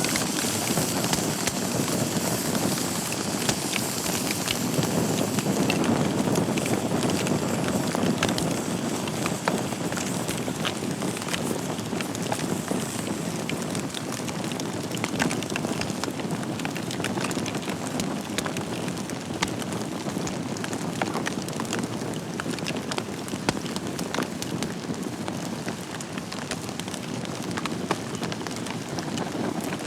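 Wood fire burning in a fireplace: a steady rush of flame with frequent sharp crackles and pops.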